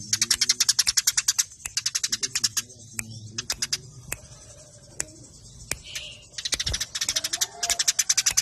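Eurasian tree sparrows giving their rapid fighting chirps: fast runs of sharp, high chirps at about ten a second, breaking off after a couple of seconds into scattered single chirps and picking up again near the end.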